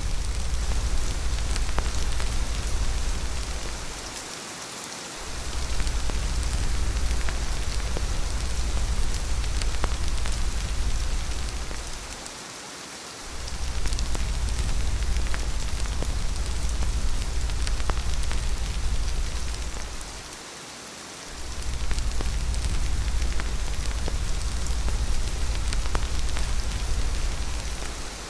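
Steady rain hiss with scattered light drop ticks, over a deep low rumble of wind that drops away for about a second three times and then comes back.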